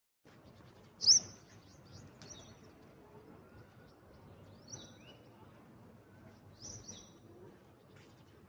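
Birds chirping in short, separate calls, the loudest about a second in and a few more spread through the rest, over a faint steady background hiss.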